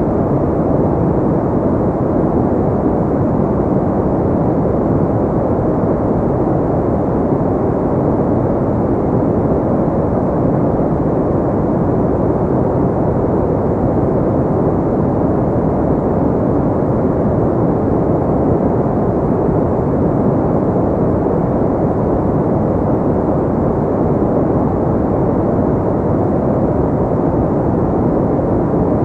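Steady pink noise: an even, unbroken rush, deep and muffled, with little treble.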